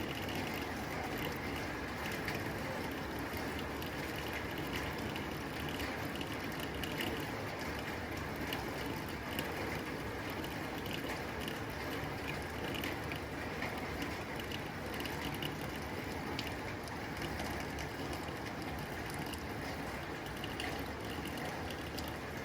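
Steady rain falling on a tin roof: a dense patter of drop impacts over an even hiss.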